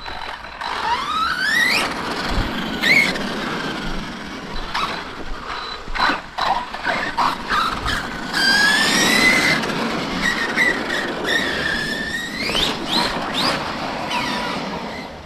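Electric motors of radio-controlled stunt trucks whining, rising and falling in pitch as they are throttled, sometimes two at once, over tyre noise on dirt, with several short knocks.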